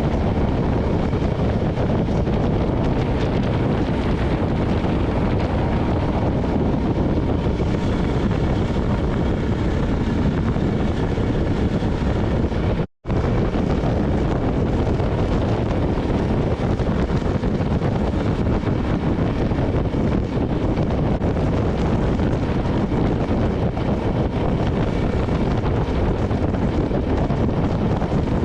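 Wind rushing over the microphone while riding a KTM single-cylinder dual-sport motorcycle at steady speed, the engine running under the wind. The sound briefly cuts out about halfway through.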